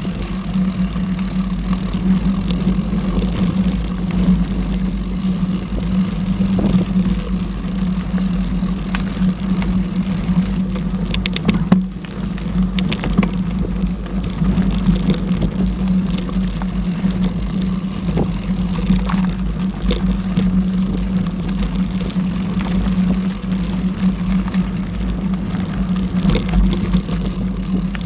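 Mountain bike in motion on a dirt trail: a steady rumble of tyres rolling over the ground with a constant low hum, and a quick cluster of rattling knocks about eleven to twelve seconds in as the bike goes over rough ground.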